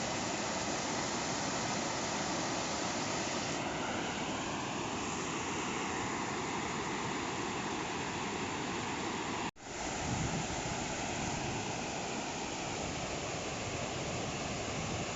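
Steady rushing of floodwater pouring over an overflowing weir. The sound breaks off for an instant about nine and a half seconds in, then carries on.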